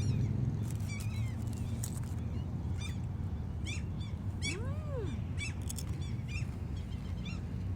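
Gulls calling again and again, short high cries from several birds, with one longer call that rises and falls near the middle. A steady low hum runs beneath.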